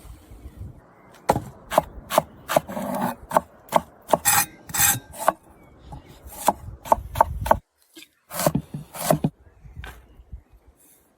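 A series of short, sharp scraping and knocking strokes at an uneven pace, with a brief break near the middle.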